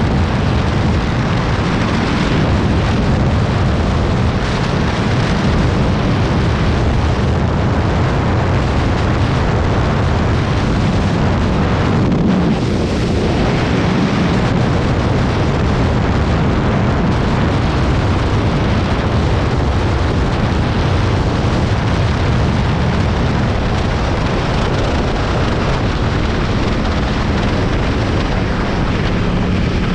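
Heavy wind rush buffeting the microphone of a moped ridden at speed, with the engine running steadily underneath.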